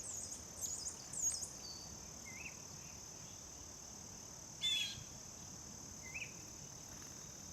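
Small wild songbirds calling: short high chirps, a few soft single notes, and one harsh buzzy call a little past halfway. A steady high insect drone runs underneath.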